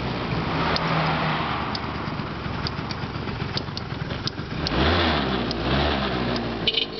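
Yamaha Axis 90 scooter's small two-stroke engine running, revved up once a little past the middle and then dropping back. Faint ticks recur throughout.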